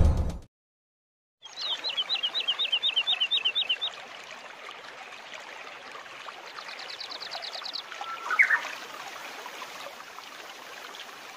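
Birds calling over a faint steady hiss: a run of about a dozen quick repeated chirps, a rapid high trill a few seconds later, then a short rising call.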